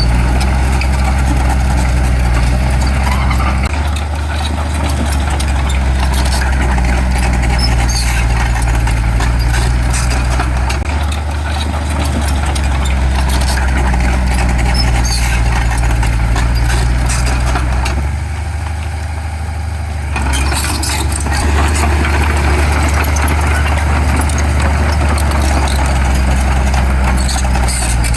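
Heavy diesel engine of earthmoving machinery running under changing load, its low note shifting every several seconds and easing off briefly near two-thirds through, with scattered metallic clanks.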